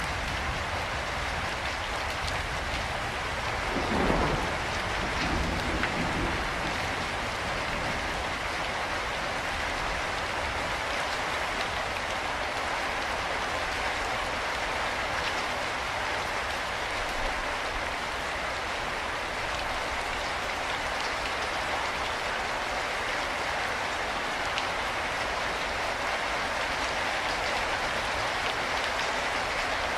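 Steady rain falling, an even hiss of drops, with a brief low rumble about four seconds in.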